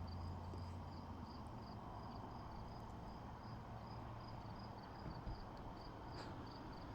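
Faint cricket chirping in a steady, even rhythm of short high chirps, a few a second, over a low rumble.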